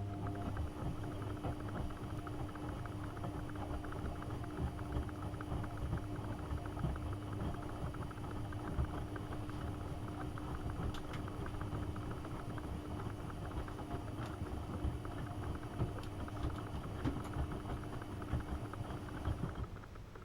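AEG Öko Lavamat 72520 washing machine running, with a steady motor whine over a rumbling, crackling churn; it stops abruptly near the end.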